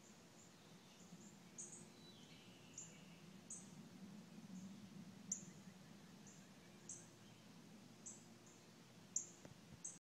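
Birdsong: a bird repeating short, very high chirps about once a second, with a fainter lower warbling call from another bird about two seconds in.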